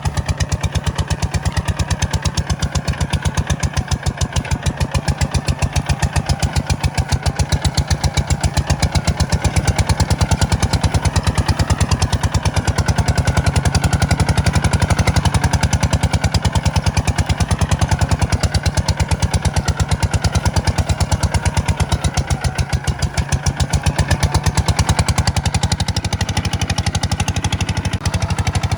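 Kubota tractor's diesel engine running steadily under load while ploughing, a fast, even chug of firing pulses that holds throughout.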